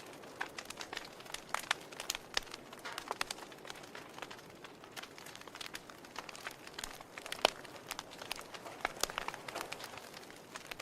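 Wood fire burning in a fireplace: the logs crackle with irregular sharp pops and snaps over a soft hiss, one pop about seven and a half seconds in louder than the rest.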